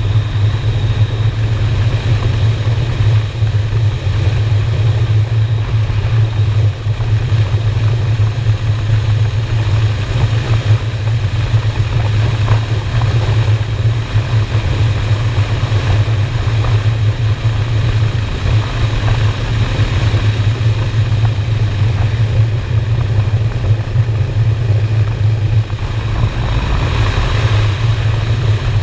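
V-twin motorcycle engine running at a steady cruise, a constant low drone.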